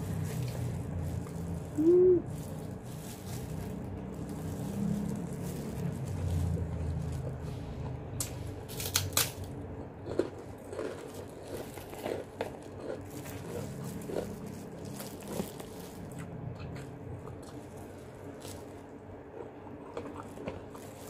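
Close-up chewing and mouth sounds of a person eating fried chicken and rice by hand, with small wet clicks of the mouth. There is a short hum-like tone about two seconds in and a brief burst of crackling around nine seconds in.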